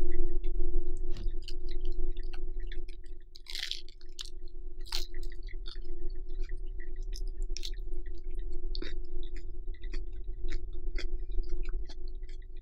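Close-miked eating of a lettuce wrap of grilled pork: crisp crunches of iceberg lettuce and wet chewing clicks, the loudest crunch about three and a half seconds in. A steady hum with a faint tone runs underneath.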